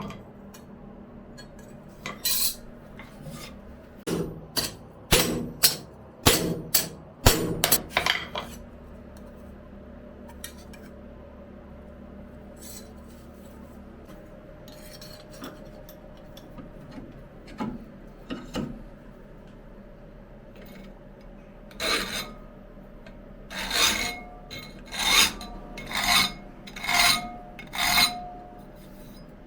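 Hand file scraping on steel in short, separate strokes: about eight strokes in the first eight seconds, a quiet stretch with a few faint scrapes, then about six more strokes near the end, the last ones with a slight ring.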